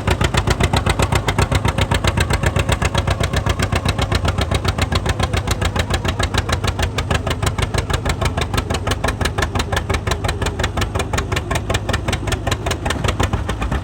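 A John Deere A's two-cylinder engine running with an even popping exhaust beat, about six pops a second, holding steady throughout.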